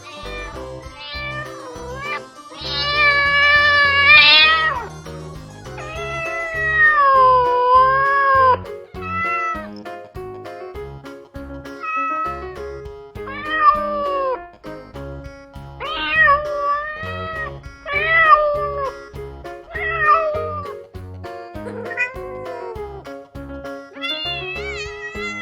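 A series of domestic cat meows, each call bending in pitch, with one long loud call about three seconds in and shorter meows every second or two after, over background music with a steady beat.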